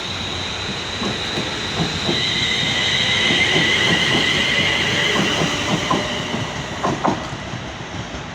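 Class 350 Desiro electric multiple unit pulling away: a high steady electric whine with wheels clicking over rail joints. It grows louder about two seconds in, then fades.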